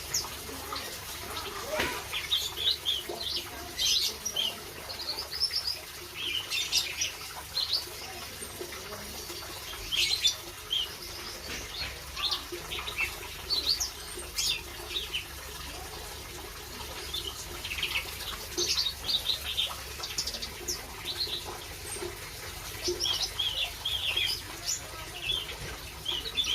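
Several small songbirds chirping and calling, short high chirps following one another in quick, irregular succession.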